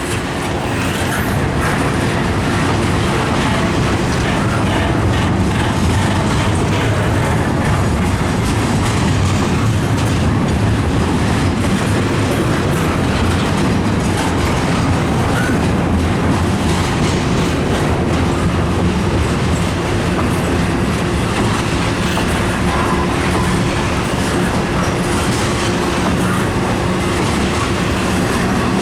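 Freight train of intermodal cars rolling slowly past, its wheels clicking over the rail joints under a steady rumble.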